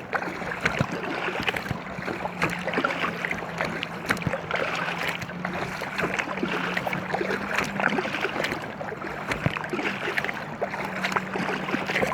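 Water splashing and slapping around an inflatable kayak, many small splashes, with the steady low drone of a motorboat engine under it that rises a little in pitch about halfway through.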